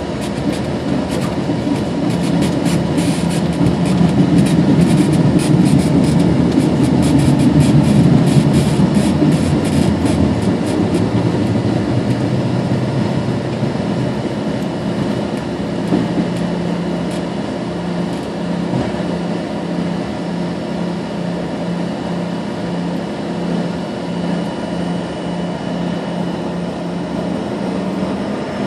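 Airliner cabin during the takeoff roll: the jet engines run at takeoff power over a heavy rumble and rapid bumping from the wheels on the runway. About ten seconds in the bumping fades out as the aircraft lifts off, leaving a smoother, steady engine drone.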